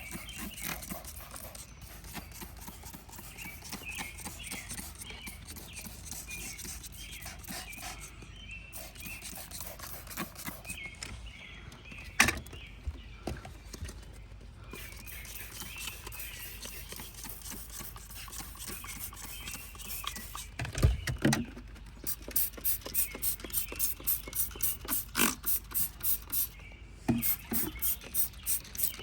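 Hand scrubbing and wiping inside a car's interior: irregular rubbing with squeaks and a few knocks, then steady back-and-forth scrubbing strokes, about two a second, over the last several seconds.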